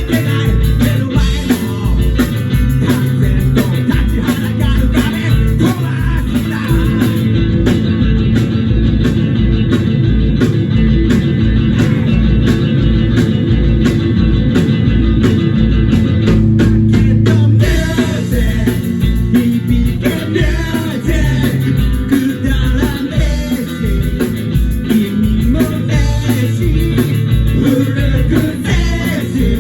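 Live rock and roll band playing: electric guitar, bass and drums on a steady beat, with singing. The band's sound shifts a little past halfway through.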